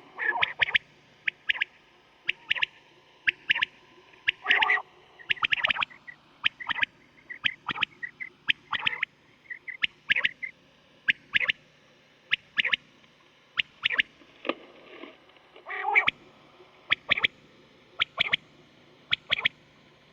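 Quail calling over and over: short, sharp calls about once a second, with a few louder, deeper calls among them. This is the kind of call played back to lure quail when hunting. A faint steady hum runs underneath.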